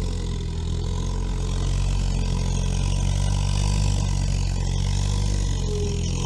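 All-terrain vehicle's engine running steadily under load as the machine climbs a slope, with a slight rise in level partway through.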